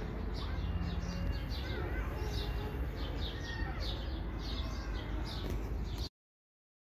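Small birds chirping over and over in quick, short high notes, with a steady low rumble underneath. The sound cuts off abruptly about six seconds in.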